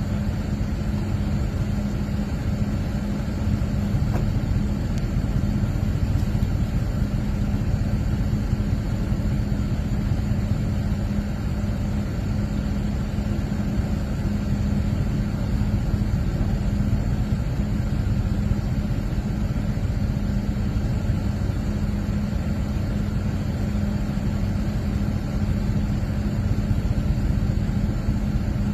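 An engine idling steadily with an even low hum that does not change.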